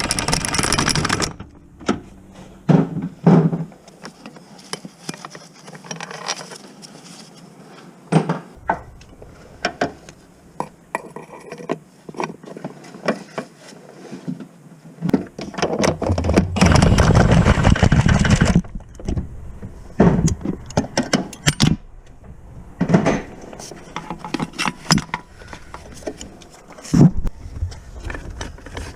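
A cordless power tool runs in two bursts, one at the start and a longer one from about halfway through. Between and after the bursts come clinks, scrapes and knocks of metal tools and parts.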